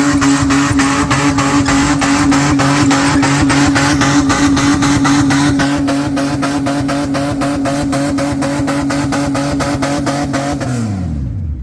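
Car engine held at steady high revs, with a regular stutter about five times a second. Near the end the revs drop away quickly and the engine falls quiet.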